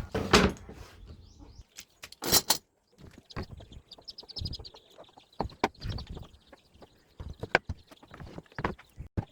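Irregular sharp knocks and clicks, a dozen or so at uneven intervals with quiet gaps between, and faint high chirping in the middle.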